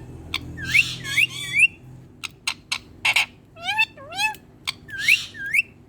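Indian ringneck parrot calling: a quick run of short chirps that each sweep upward in pitch, broken by three harsh squawks and a few sharp clicks.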